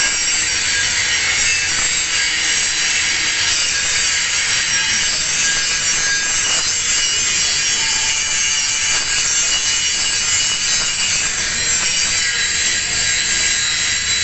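Angle grinder grinding a single bevel on the edge of a metal plate: a steady, unbroken grinding noise with a high whine running through it.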